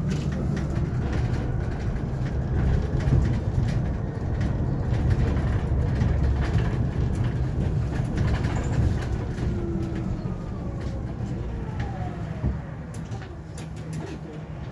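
Hyundai Elec City 2 electric bus driving, heard from inside the cabin: a steady low road rumble with small rattles and clicks, and a faint electric motor whine that rises in pitch and then slowly falls.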